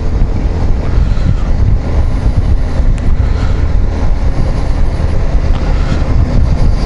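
Wind buffeting the microphone while riding a Yamaha XMAX 250 scooter, with the scooter's engine and road noise underneath.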